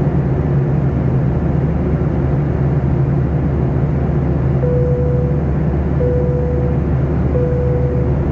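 Steady drone of an airliner cabin in flight: engine and airflow noise with a low hum. About halfway through, a steady beep starts and repeats four times, about every second and a half.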